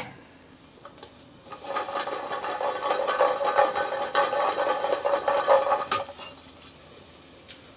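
Chestnuts rattling and scraping in a metal roasting pot, with the pot ringing. It starts about a second and a half in and lasts about four seconds.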